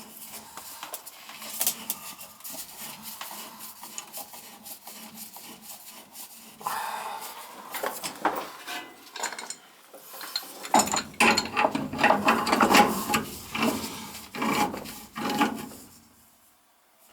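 Hands working on furnace parts: irregular rubbing and scraping with scattered clicks and knocks, busier and louder in the second half.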